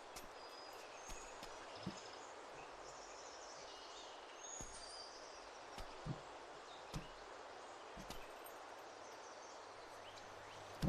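Faint outdoor ambience: a steady hiss with scattered short bird chirps, and a few soft low thumps.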